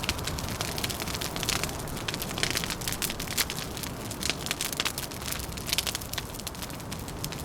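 Wood fire crackling, with frequent irregular snaps and pops over a steady low background noise.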